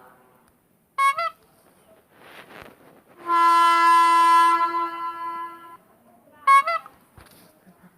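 Horn sound effects: a short toot with a wavering pitch about a second in, then a long steady horn blast lasting about two and a half seconds, and another short wavering toot near the end.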